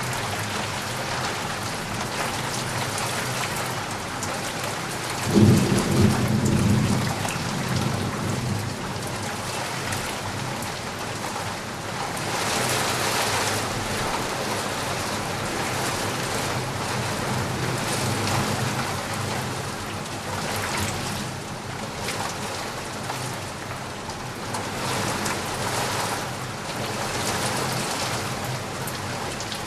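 Steady rain falling and pattering outside a window, swelling and easing every few seconds. About five seconds in comes a short, low rumble, the loudest moment: a roll of thunder.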